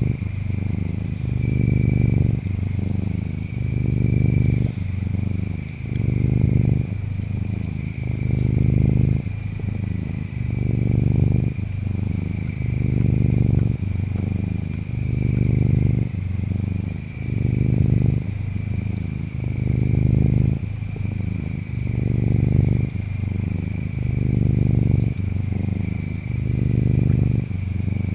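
A ginger tabby cat purring, the purr swelling and easing about once every two seconds with its breathing. Under it, insects chirp steadily at a high pitch.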